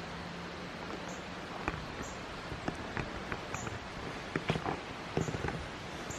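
Footsteps on rough outdoor ground: irregular crunches and clicks, most of them between about two and five and a half seconds in, over a steady background hiss.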